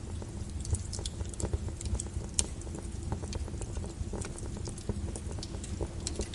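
Burning logs crackling in a fireplace: irregular sharp pops and snaps, several a second, over a low steady rumble of the fire.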